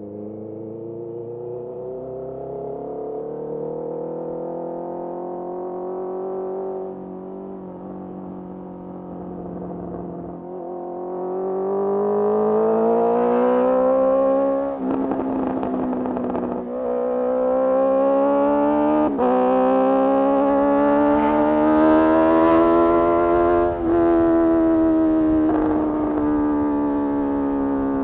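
Honda CBR650R inline-four engine through a Mivv MK3 carbon slip-on exhaust, riding along with the revs rising and easing. It gets louder under harder throttle about halfway through, with several short breaks in the sound where the rider shifts gear.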